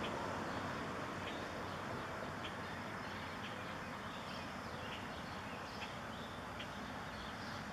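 Low rumble of a diesel freight train receding down the line, slowly fading, with short bird chirps scattered through it.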